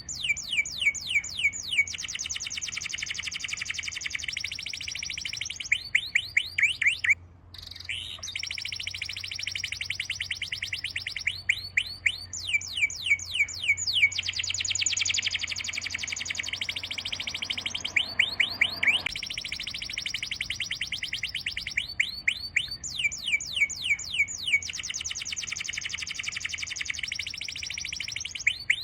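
A small songbird singing continuously, in phrases of rapid high falling chirps that alternate with long, fast trills. A faint low hum runs beneath the song and stops about two-thirds of the way through.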